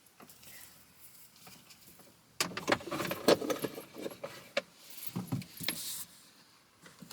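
Clicking and rattling of small hard objects being handled, in a busy cluster starting about two and a half seconds in, after a quiet stretch.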